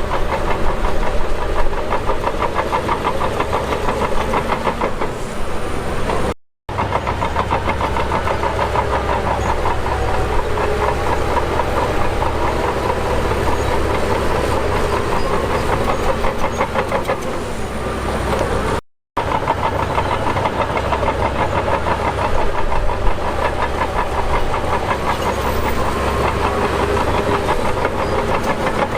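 Heavy diesel earthmoving machinery working, a steady loud clatter of engine and metal. The sound cuts out twice for a moment, about six and a half seconds in and again near nineteen seconds.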